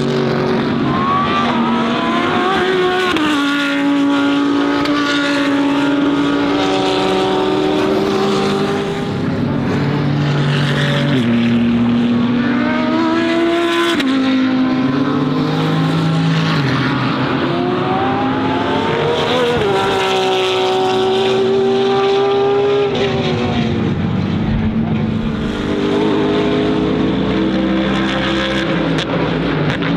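Several DTM GT3 race car engines running hard and overlapping, each rising in pitch and stepping down at gear changes as the cars pass.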